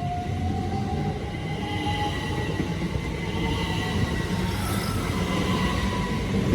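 Class 387 electric multiple unit pulling away, its traction motors giving a whine that rises slowly in pitch as it accelerates, over a steady rumble of wheels on the rails.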